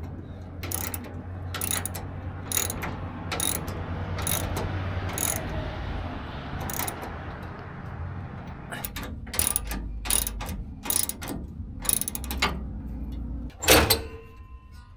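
Ratchet wrench working, a run of sharp clicks roughly every half second over a steady low hum, with a louder knock near the end.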